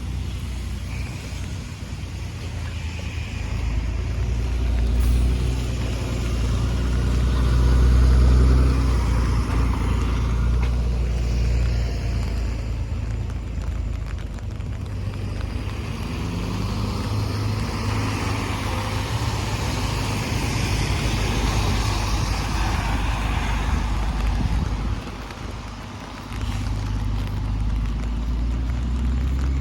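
Street noise in the rain: a car or two passing on wet pavement, the tyre hiss swelling and fading twice, over a steady low rumble.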